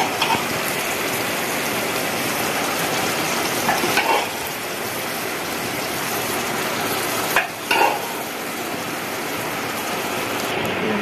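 Soaked arhar dal being ladled into hot, wet masala in a pot, sizzling steadily. The metal ladle knocks against the pot briefly a few times, around four and eight seconds in.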